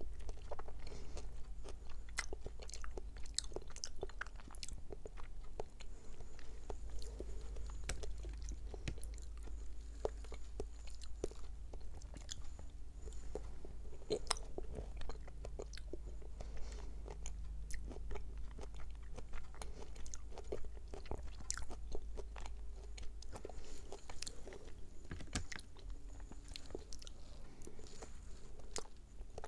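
Close-miked chewing of springy konjac jelly: many short, irregular wet mouth clicks and squishes, over a steady low hum.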